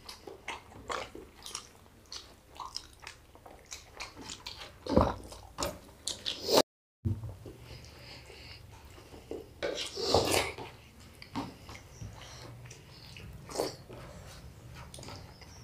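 Close-miked chewing and wet mouth smacks from people eating rice by hand, with small clicks and squishes as fingers mix rice on the plates. The sounds come in irregular short bursts, and a brief gap of silence cuts in about seven seconds in.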